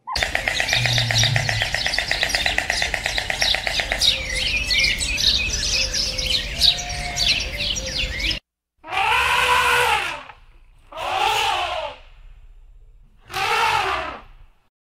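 Birds chirping in a dense chorus over a steady background hiss. After a sudden cut, another animal gives three separate calls about a second long, each rising then falling in pitch.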